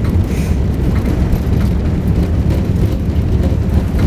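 Airbus A380 taking off, a steady low rumble with occasional faint knocks.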